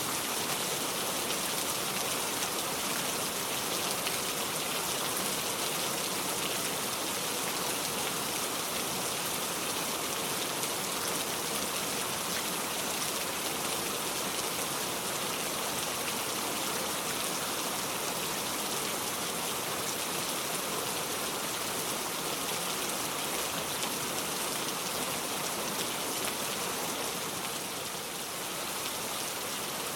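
Steady, even rain falling, heard as a continuous hiss of drops.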